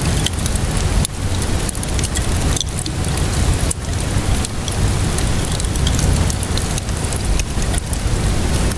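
Steady rainfall blended with a crackling wood fire: a dense, even hiss over a low rumble, with scattered small snaps and pops throughout.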